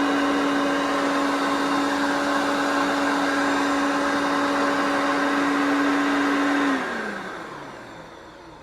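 Mid-1980s Hoover Concept 2 vacuum cleaner running with a steady motor whine. It is switched off about seven seconds in, and the motor winds down with falling pitch.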